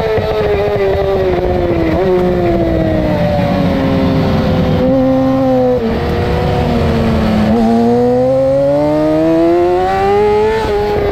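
2008 Yamaha R6's inline-four engine at racing revs. The pitch falls in steps through downshifts for the first half, then climbs steadily under hard acceleration, with an upshift drop near the end.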